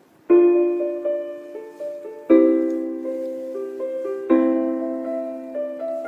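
Slow piano intro to a pop ballad: three chords struck about two seconds apart, each left to ring and fade, with a simple melody of single notes moving above them.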